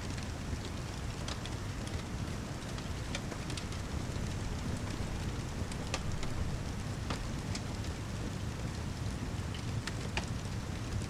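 Steady heavy rain with a low rumble underneath, mixed with scattered sharp crackles and pops from a wood fire in a fireplace.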